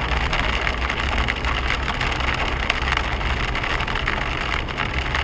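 Hail pelting a moving car's body and windscreen: dense, rapid ticks over the steady low hum of the engine and tyres.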